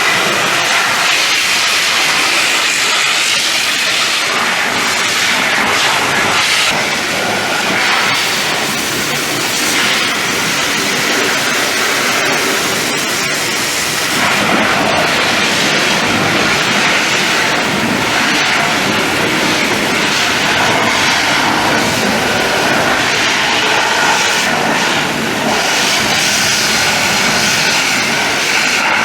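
Pressure washer spraying water in a steady, loud hiss whose texture shifts now and then as the jet moves.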